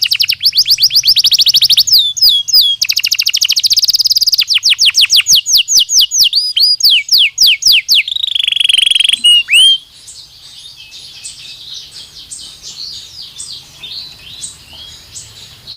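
Belgian canary singing: loud, rapid trills of repeated down-sweeping whistled notes, switching from one phrase to the next. About two-thirds of the way through the song drops to a much fainter, looser twitter.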